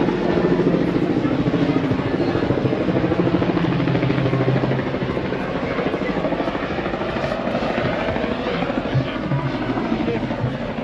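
A loud engine running with a fast, even pulsing, strongest for the first few seconds and then easing off, over crowd chatter and music.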